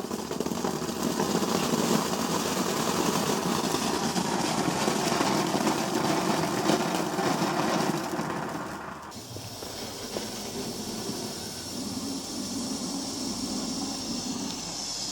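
Garden firework fountain spraying with a dense, crackling rushing hiss that drops abruptly to a fainter hiss about nine seconds in.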